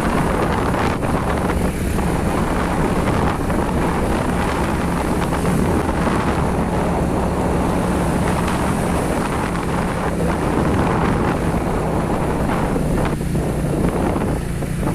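A vehicle engine running at a steady speed while driving along, with wind buffeting the microphone.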